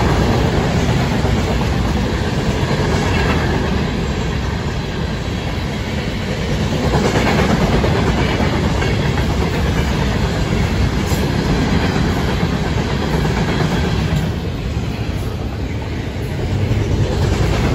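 Freight train's intermodal cars rolling past: a steady rumble of steel wheels on the rails, with clickety-clack as the wheels cross the rail joints. The rumble dips briefly near the end.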